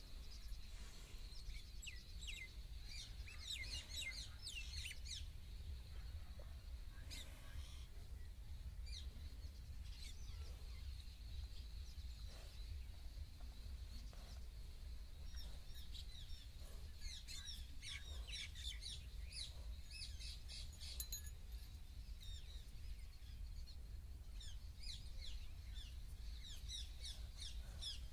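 Small birds chirping: quick runs of short, high notes in several spells, over a low steady rumble.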